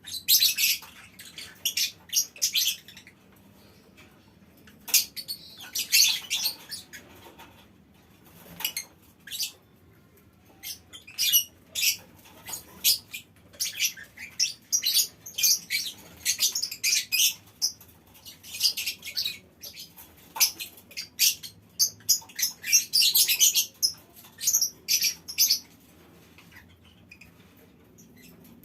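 Lovebirds giving shrill, high-pitched chirping and chattering calls in clusters, with short pauses between, and a denser run of rapid calls about two-thirds of the way through.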